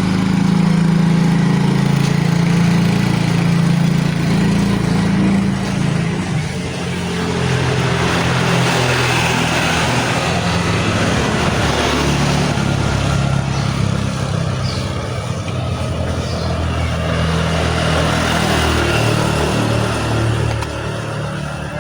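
An engine running steadily close by, its low pitch wavering slightly without sharp revving.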